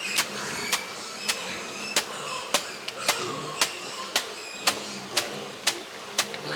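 Sharp, evenly spaced knocks, about two a second, with faint short chirps between them.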